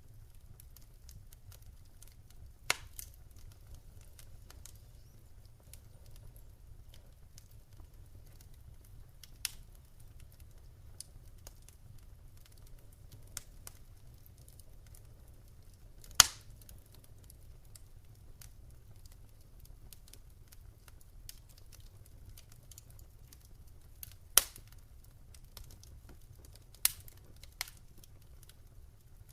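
Wood fire burning in a fireplace, with scattered sharp crackles and pops at irregular intervals, the loudest about halfway through, over a faint low rumble.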